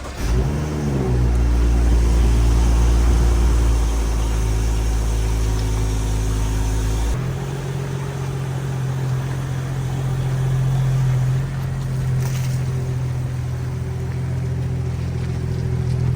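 2015 BMW 335i's turbocharged 3.0-litre inline-six running through a freshly fitted catless downpipe, with its stock resonators and muffler still in place. The pitch falls and settles in the first second, then the engine runs steadily. The sound changes abruptly about seven seconds in.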